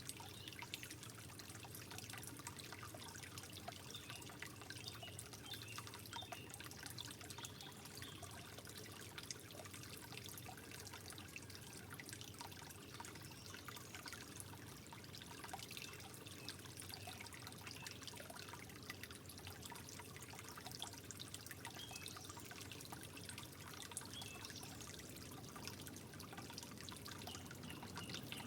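Water trickling softly and steadily, with many small drips and splashes.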